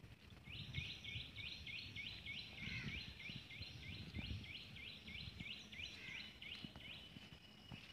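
A bird calling faintly, a long even run of short rising chirps at about three a second that stops near the end, over a low rumble.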